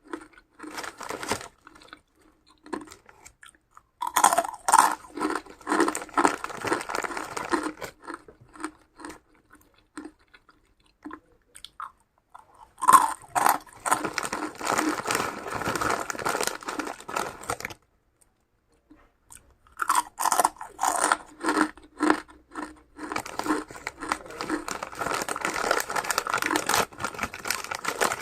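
A person chewing crunchy food close to the microphone: three long spells of dense crunching, split by short quiet pauses.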